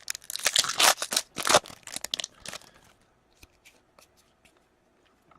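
Crinkling and tearing of a hockey card pack's foil wrapper as cards are handled, a dense crackle for about two and a half seconds, then a few light clicks.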